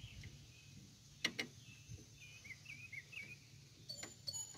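Faint bird chirps, a run of short calls rising and falling in pitch, over a low steady hum, with a pair of sharp clicks a little over a second in.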